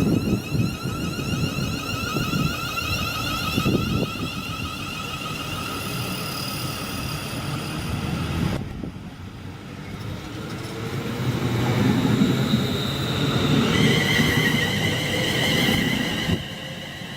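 A train running through a station: a low rumble under a high, wavering whine. The sound breaks off sharply about halfway, and near the end a new, louder whine sets in.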